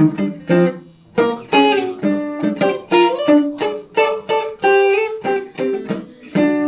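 Electric guitar, a Van Zandt Telecaster through a Roland JC-120 amp, playing a melodic line of separate picked notes in short phrases.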